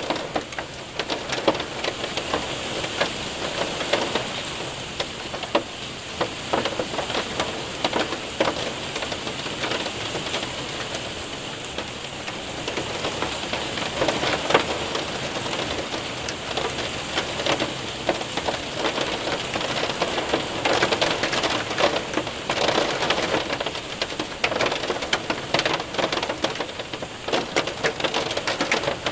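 Hail and heavy rain hitting a window and roof: a steady wash of rain under dense, irregular clattering impacts, busier in the second half.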